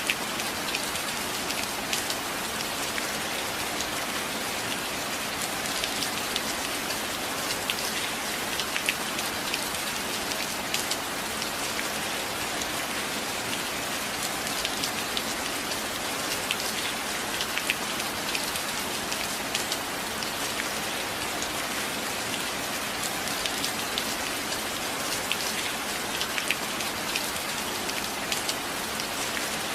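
Steady heavy rain: a dense hiss with many individual drops ticking sharply against a hard surface.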